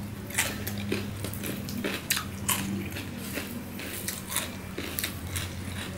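Close-miked chewing and wet mouth sounds of a person eating rice with mashed taro and dal, with irregular small clicks and soft squishes as the rice is mixed by hand. A steady low hum runs underneath.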